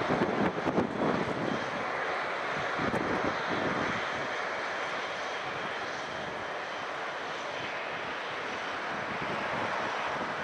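Jet airliner engines heard as the aircraft moves at the airport, a steady rushing noise, with wind buffeting the microphone in the first few seconds.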